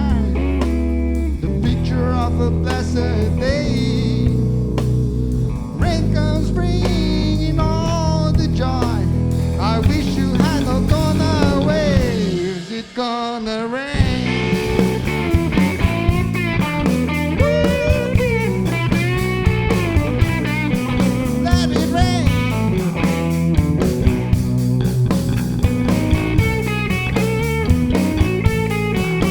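Rock band playing live in an instrumental break: a lead guitar plays bending, gliding notes over sustained bass. Just before the middle it drops out briefly, then the band comes back in with steady drum hits.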